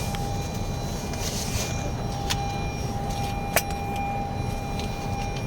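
Inside a car's cabin: the steady low rumble of the engine and road, with a thin steady whine over it and two sharp clicks, the second one, about three and a half seconds in, the louder.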